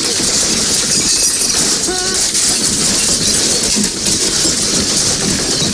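Loud, steady rattling and rumbling of things shaking during a strong earthquake. There is a short rising pitched sound about two seconds in.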